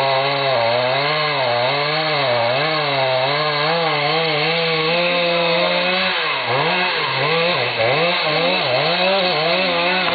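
Chainsaw engine running hard, its pitch swinging up and down as the revs rise and fall. From about six seconds in, the revs dip and climb again more quickly.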